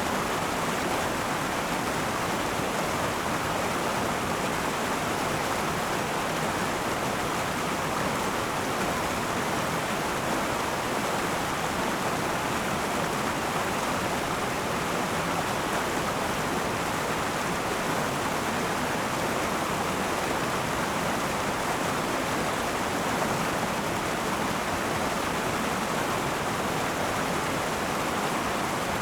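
River water rushing and babbling over rocks: a steady, even rush of flowing water.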